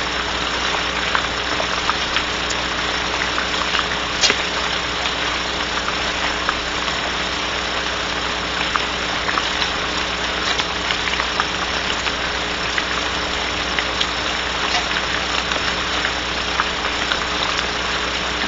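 Steady rain heard through a barn owl nest-box camera's microphone, with scattered sharp drip ticks over a steady low electrical hum.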